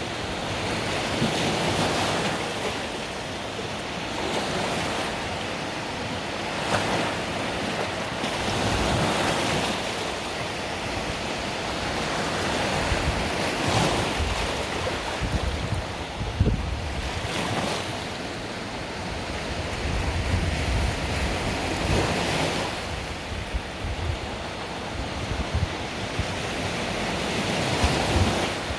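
Mediterranean sea waves breaking and washing on the shore, swelling and easing every few seconds, with some wind noise on the microphone.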